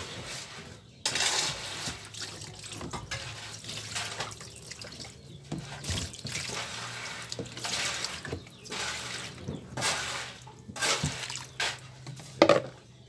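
Tap water running and splashing as the twin-tub washing machine's drain valve rubber seal and parts are rinsed clean, the splashing rising and falling. A sharp knock near the end.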